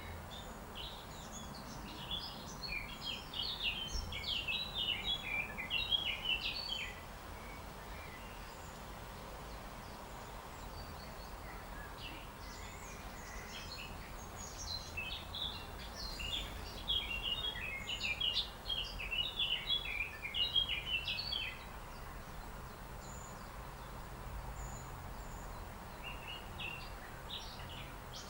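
A small songbird singing long runs of rapid, jumbled high notes, twice for several seconds each and starting again near the end, over a steady low background noise.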